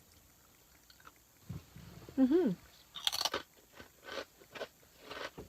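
Someone bites into a crunchy potato chip about three seconds in and chews it, with a regular crunching at about two to three a second. A short hum of the voice comes just before the bite.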